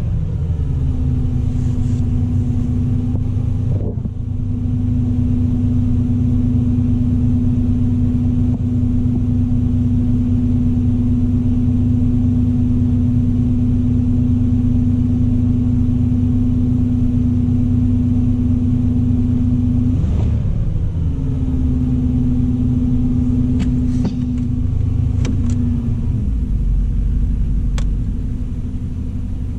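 Oldsmobile 307 V8 of a 1987 Cutlass Salon idling after a cold start, heard from inside the cabin as a steady low hum. It dips briefly a couple of times, and near the end the steady tone drops away while the deep rumble grows, with a few faint clicks.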